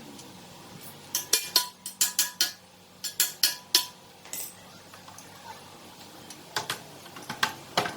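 Small metal parts clinking and tapping: a quick string of sharp metallic clicks about a second in, another about three seconds in, and a third near the end.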